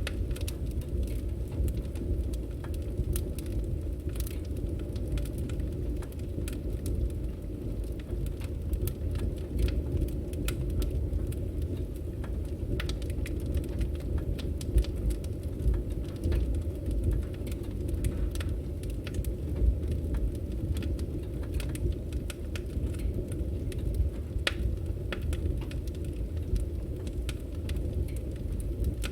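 Wood fire burning: a steady low rumble of flames with frequent sharp crackles and pops from the burning firewood.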